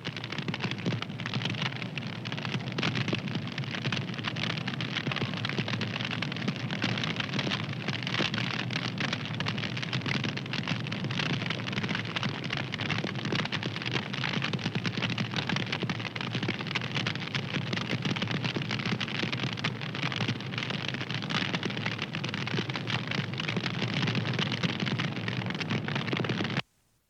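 Wood fire crackling: a steady hiss thick with small rapid pops and snaps. It cuts out for a moment near the end.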